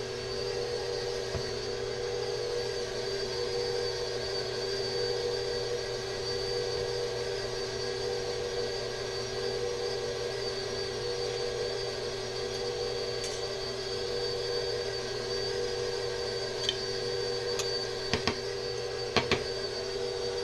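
Electric mixer running steadily on low, its motor giving an even hum with a high whine above it as it mixes cookie dough. A few light knocks come near the end.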